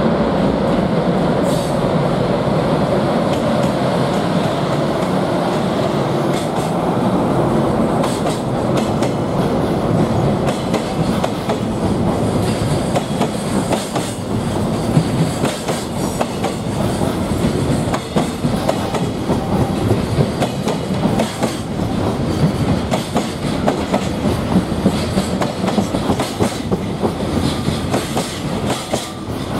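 JR Freight EH500 electric locomotive passing with a steady hum, followed by a long train of container flatcars running by. Their wheels clatter rhythmically over the rail joints, the clicks growing sharper and more prominent about halfway through.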